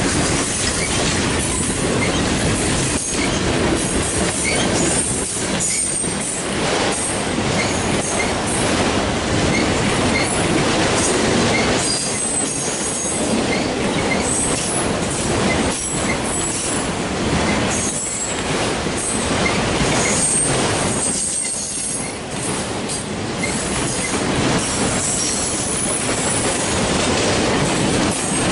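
A long freight train's cars rolling past at trackside: covered hoppers, boxcars and autorack cars clattering and knocking over the rails, with brief high-pitched wheel squeals now and then.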